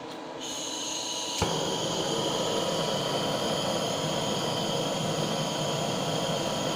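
Butane blowtorch being lit: gas starts hissing, a sharp click about a second and a half in as it ignites, then the flame burns with a steady hiss.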